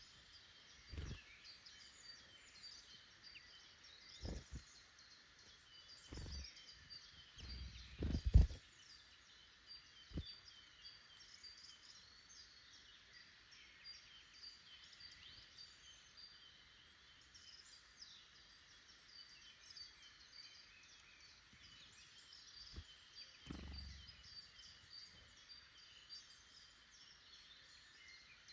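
Forest birds singing and calling throughout, a steady scatter of high chirps and song phrases. Several short low thumps break in, the loudest about eight seconds in and another near the end.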